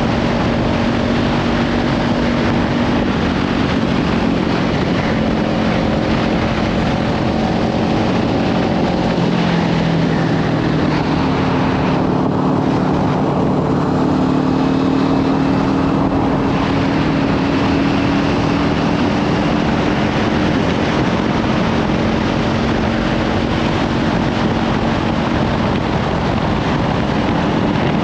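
Kawasaki Ninja 500 parallel-twin with a Leovince slip-on exhaust running at road speed, its note drifting up and down gently, buried under heavy wind noise on the microphone. The wind hiss eases for a few seconds midway.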